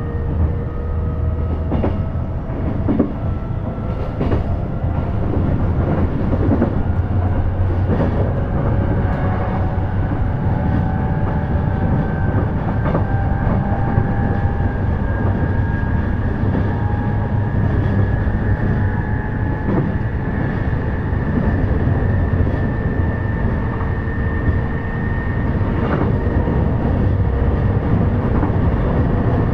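E233-series electric train heard from inside the carriage while underway: a steady rumble with a motor whine that slowly rises in pitch as the train gains speed, and scattered clicks from the wheels over rail joints.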